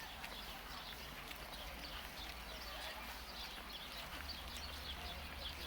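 Small birds chirping, many short quick high notes in a continuous stream, over a steady low rumble of city background.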